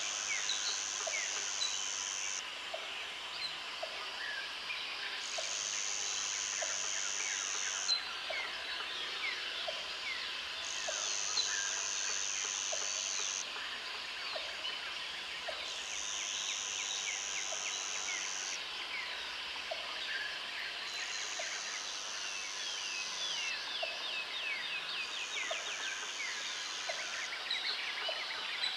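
Jungle ambience of birds and insects: a high insect buzz switches on and off in spells of a few seconds, about six times, over a dense chorus of bird chirps and trills. A low short call repeats about once a second throughout.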